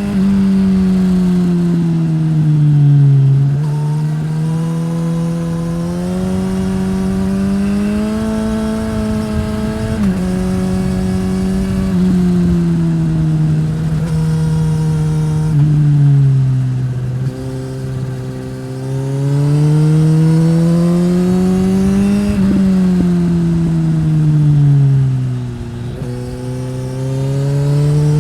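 2015 Suzuki GSX-S1000's inline-four through a Yoshimura R-11 slip-on exhaust, being ridden hard: the engine note climbs under acceleration, then falls as the throttle closes, with sudden pitch drops at the shifts. This happens about four times, as on a winding road.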